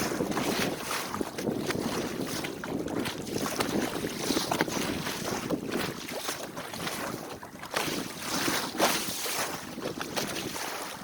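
Water rushing and splashing along the hull of a 14-foot sailboat under way, in irregular gusts, with wind buffeting the microphone.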